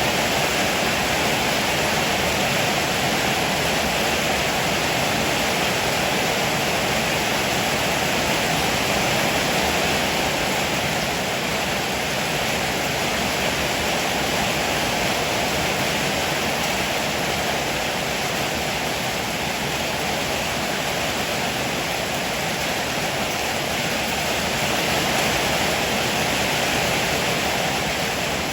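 Heavy rain falling steadily, an even unbroken hiss with no thunder claps.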